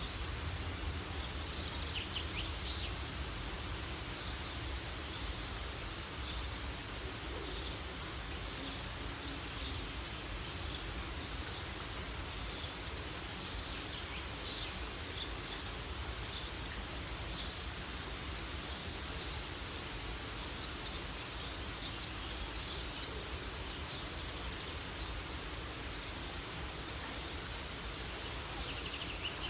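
Outdoor nature ambience: a steady high insect drone with a pulsing trill every few seconds, and scattered short bird chirps over a steady hiss.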